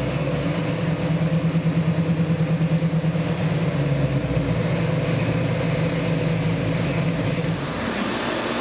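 Pontiac 455 V8 engine running at a steady idle on an engine dyno, with a rhythmic pulsing beat for a few seconds. Its tone shifts near the end.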